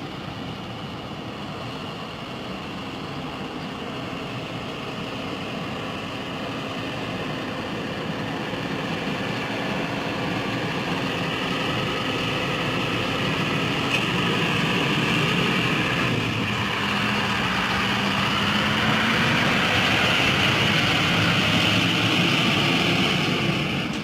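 A heavy truck's diesel engine and tyres getting steadily louder as it approaches, its engine note slowly shifting in pitch.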